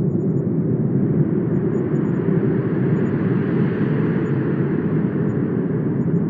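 Steady rushing wind with a deep rumble. A gust makes it brighter and fuller around the middle, then it eases back.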